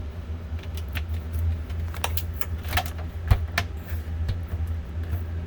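Scattered light clicks and knocks of things being handled, with one sharper knock about three seconds in, over a steady low hum.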